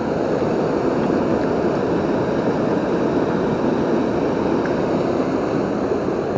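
Steady rushing of a river waterfall, a constant roar of falling water.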